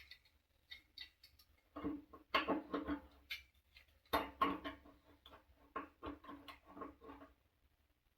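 Quick runs of small clicks, knocks and scrapes of hand tools and metal parts on an electric water heater. They come in two flurries, about two seconds in and again from about four seconds in.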